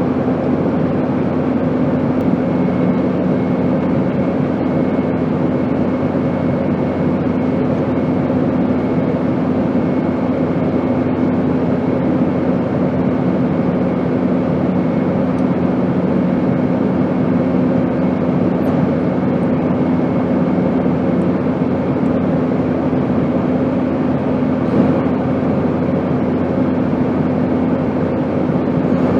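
Airplane engine drone: an even, unchanging rushing noise with a steady low hum underneath.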